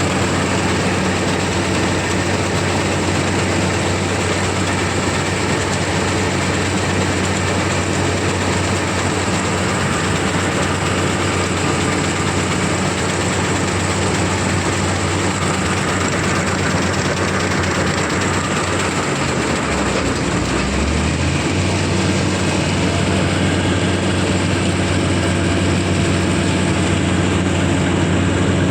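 Combine harvester's diesel engine running steadily under load, a constant hum over dense machinery noise, with a brief change in the low hum about two-thirds of the way through.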